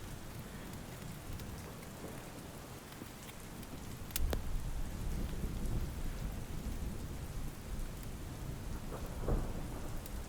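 Steady rain falling, with a sharp crack of thunder about four seconds in followed by a low rumble.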